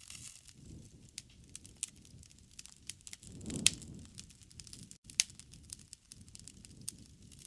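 Wood fire crackling, with irregular snaps and pops over a soft low rumble of flames. The rumble swells about three and a half seconds in, with a sharp pop, and another loud pop comes about five seconds in.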